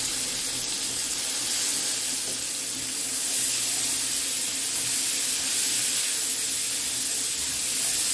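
Diced calabresa sausage, bacon and red onion sizzling steadily in butter and olive oil in a frying pan as the onion goes in and is stirred with a silicone spatula; the sizzle grows a little louder about three seconds in.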